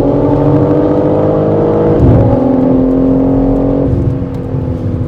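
BMW engine heard from inside the cabin, pulling hard on track, with a gear change about two seconds in where the pitch dips and then climbs again. Near the end the engine drops in level and its tone settles and falls slowly as the throttle is eased.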